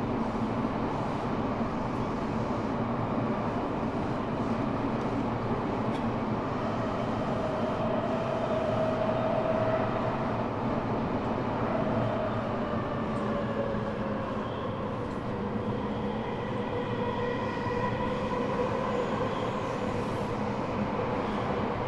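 Eidan 6000 series subway car with a Mitsubishi three-level VVVF inverter taken from a 7000 series train, running in the tunnel and heard from inside the car at floor level: steady wheel and track rumble under pitched inverter tones. The inverter tones rise about midway, then fall slowly in pitch through the second half as the train slows, and a faint high squeal comes in near the end.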